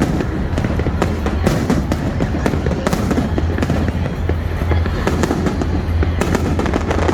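Fireworks going off in quick succession: a dense run of bangs and crackles over a steady low rumble.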